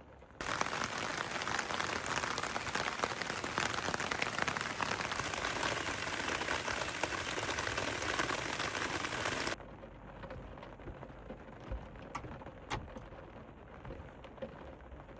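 Steady heavy rain that starts suddenly about half a second in and cuts off sharply after about nine seconds, leaving a much quieter background with a few faint clicks.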